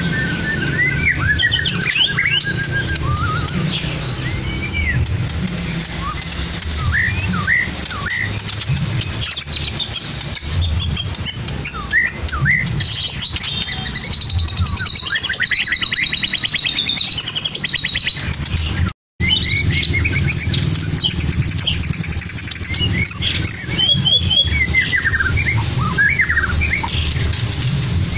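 White-rumped shama (murai batu) singing a varied song of quick chirps, whistles and rapid trills, its phrases filled with mimicked calls of lovebird, canary and cililin. The sound cuts out for a split second about two-thirds of the way through.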